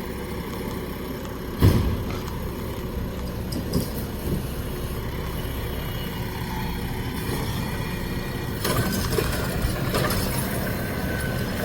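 Garbage truck's diesel engine running steadily, with a sharp bang about two seconds in and louder clattering from about nine seconds in.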